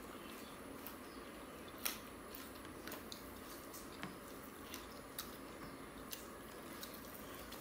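Close-miked eating sounds: chewing and wet mouth smacks as rice and chicken curry are eaten by hand. Scattered short clicks, the loudest about two seconds in, sit over a steady faint background hiss.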